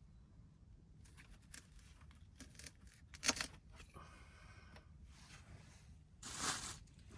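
Handling noises: a series of short rustles and scrapes, with a sharp click about three seconds in and a louder rustle near the end.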